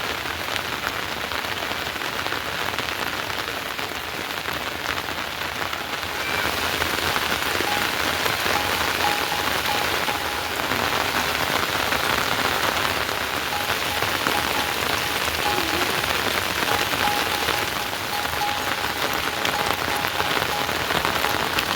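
Heavy rain falling steadily, growing louder about six seconds in.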